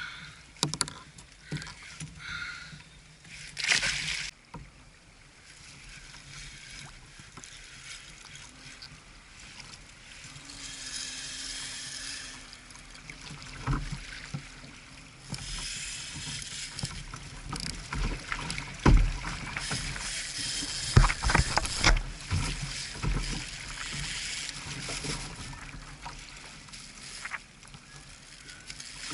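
Water splashing and lapping against a fishing kayak, with scattered knocks and thumps on the hull, the heaviest in the second half.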